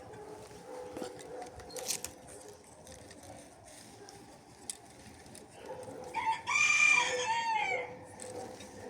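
A rooster crowing once, a loud call of about two seconds that starts about six seconds in, holds its pitch and drops away at the end.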